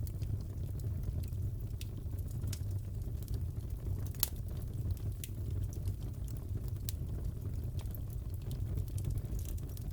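Crackling fireplace: a steady low rumble of burning logs with scattered sharp pops and crackles, one louder pop about four seconds in.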